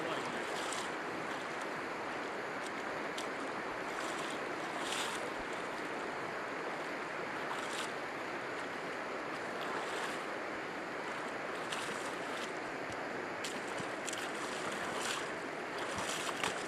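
Fast river water rushing through rapids: a steady, even noise of running water, with a few faint short ticks now and then.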